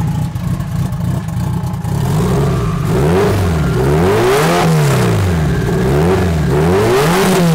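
Turbocharged four-cylinder engine with its exhaust cut off at the downpipe just under the car, so it runs very loud. It idles for about three seconds, then is revved by hand at the throttle in several quick blips, the pitch rising and falling each time.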